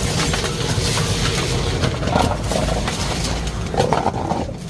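Glutton street vacuum cleaner running with a loud, steady roar and low hum, with scattered clicks and rattles of litter and debris being sucked up.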